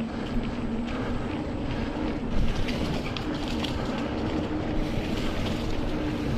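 Mountain bike rolling along a dirt trail: steady tyre noise and wind on the microphone, with a run of rattles and clicks over rough ground between about two and a half and three and a half seconds in.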